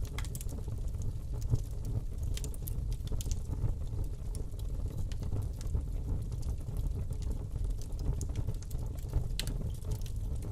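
Wood fire burning in a fireplace: a steady low rumble of the flames with frequent small irregular crackles and pops of the burning wood.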